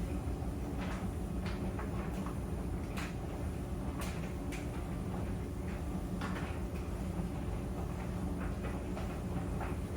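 Clothes dryer running: a steady low rumble and hum, with irregular light clicks and knocks scattered through it.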